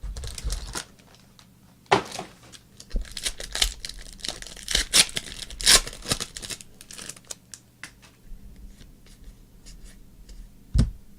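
A foil trading-card pack being torn open and crinkled, followed by scattered rustles and clicks as the cards are handled.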